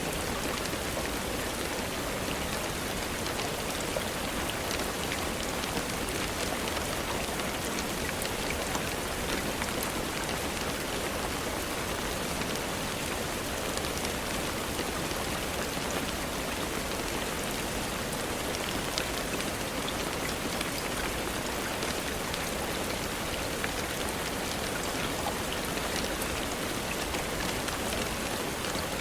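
Steady rain, an even hiss with scattered faint clicks of drops.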